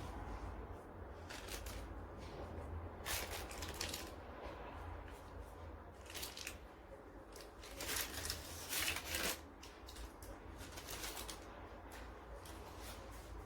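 A series of about five short rustling noises, the longest and loudest about eight to nine seconds in, over a steady low hum.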